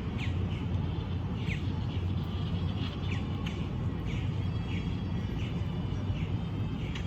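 Birds calling in a park, with short falling chirps repeated roughly once a second over a steady low rumble.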